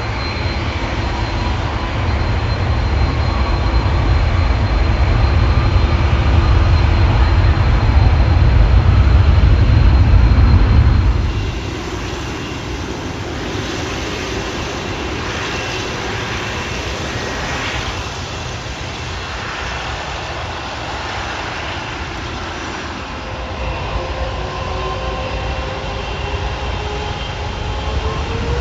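Jet airliner engines: a deep rumble with a high whine that grows louder over the first ten seconds, then falls away sharply about eleven seconds in, leaving a quieter engine noise with faint whining tones.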